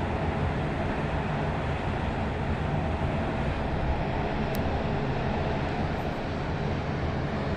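Cruise ship's engines and thrusters running with a steady low rumble and hum as the ship turns.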